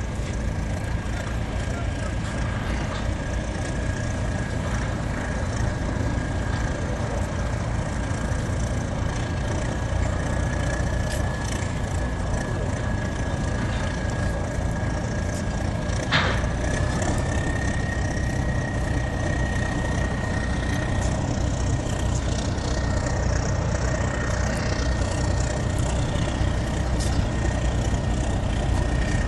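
Diesel engine of a fishing boat working its nets close inshore, running steadily with a low rumble and a thin whine that steps slightly higher in pitch a little past halfway. A single sharp knock comes just before the pitch change.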